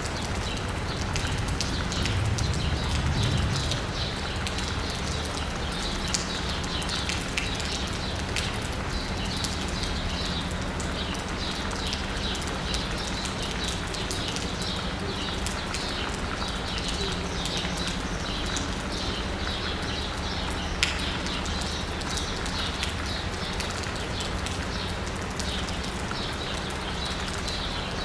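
Steady rain pattering on asphalt and rooftops, with many small birds chirping over it throughout. A low rumble swells briefly a couple of seconds in, and there is a single sharp drip or tap near the end.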